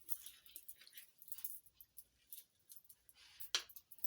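Hands rubbing seasoning into a raw whole chicken, making irregular squishing and slapping sounds of skin and flesh being handled, with one sharp click near the end.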